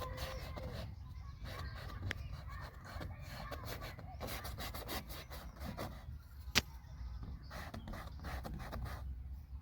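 Paintbrush rubbing and scrubbing on paper in short repeated strokes, over a steady low rumble, with one sharp click about six and a half seconds in.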